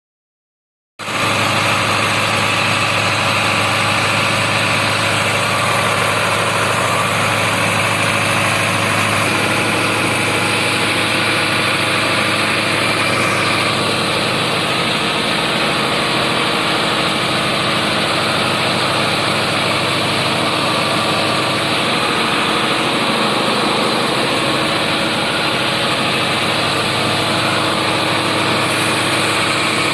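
Sonalika 750 tractor's diesel engine running steadily, cutting in suddenly about a second in.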